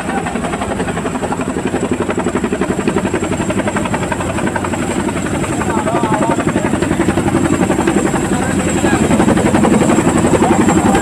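Boeing CH-47 Chinook tandem-rotor helicopter, its rotors beating in a fast, steady, heavy chop that grows louder in the second half.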